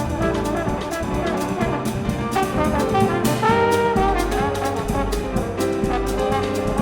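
Live jazz quintet playing: a trombone carries a line of held notes over piano, bass and drums, with regular cymbal strokes.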